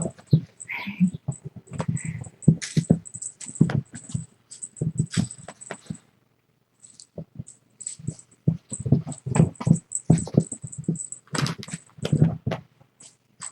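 Kittens scampering and pouncing on the floor while they play: a rapid, irregular patter of soft thumps and light clicks, pausing briefly about halfway through.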